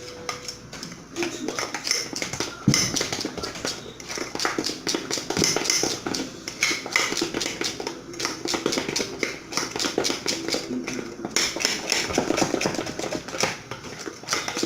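Spoon stirring a thick flour batter in a bowl, knocking and scraping against the bowl in a quick, irregular rhythm, with one sharper knock about three seconds in.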